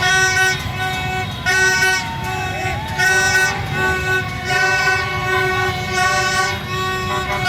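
Many horns blaring together in long, repeated blasts from a celebrating crowd, with shouts rising and falling over them about a second in.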